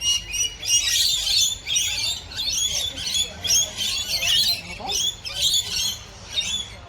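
A flock of aviary birds chirping and calling in quick, overlapping bursts, several a second.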